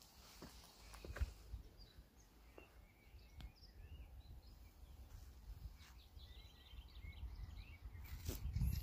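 Small birds chirping faintly, scattered short calls with a quick run of notes near the end, over a steady low rumble, with a few soft clicks.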